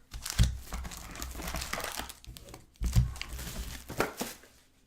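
Plastic wrapping on trading card packs and boxes crinkling as it is handled and torn open, with a few thumps of boxes being set down.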